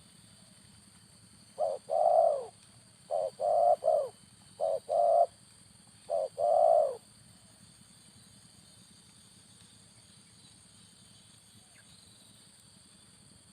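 Spotted dove cooing: a run of low coos in four short groups, a short note before a longer one, lasting about five seconds and starting a couple of seconds in.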